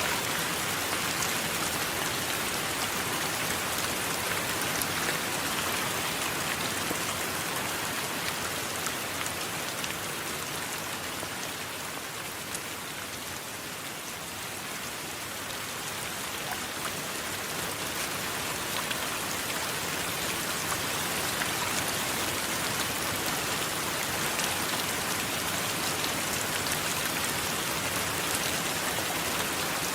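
Steady heavy rain falling, a dense hiss with fine ticks of individual drops; it eases slightly around the middle and builds back up.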